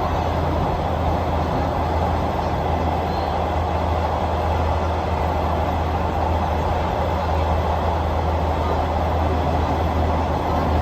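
Diesel passenger train running along the track: a steady rumble with a constant low hum and an even rushing noise, with no clear clickety-clack beat.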